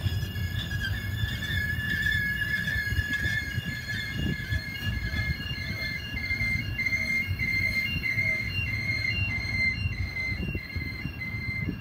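Double-stack intermodal train's well cars rolling past: a steady rumble of steel wheels on rail, with a high-pitched wheel squeal riding over it, partly held and partly pulsing about twice a second.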